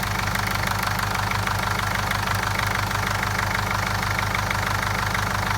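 Mercedes-Benz OM611 2.2-litre four-cylinder common-rail diesel (Vito W638 2.2 CDI) idling steadily with an even, regular rhythm.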